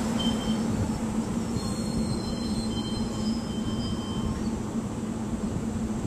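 SEPTA electric commuter train moving off past the crossing: a steady hum and rumble, with faint high wheel squeals in the first half.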